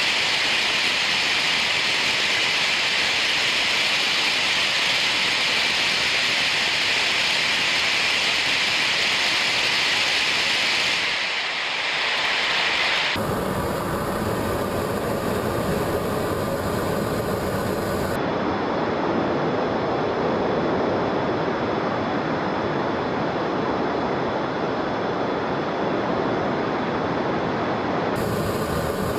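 Twin small jet engines of a Colomban CriCri Jet running steadily: a loud hissing rush with a faint high whine. The sound shifts abruptly a few times, changing between a brighter hiss and a lower, fuller rush.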